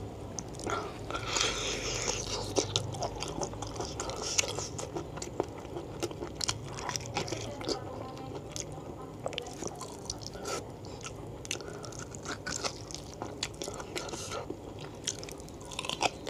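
Close-miked chewing and biting of spicy beef foot tendon and fat with rice, eaten by hand: wet mouth smacks with many short sharp clicks throughout.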